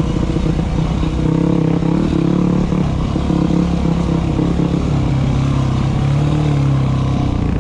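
Dirt bike engine running at low, fairly steady revs, its pitch rising and falling a little.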